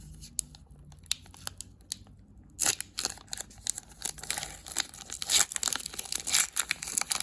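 A foil hockey card pack wrapper being torn open and crinkled: a few light clicks and rustles at first, then a dense run of tearing and crinkling from about two and a half seconds in.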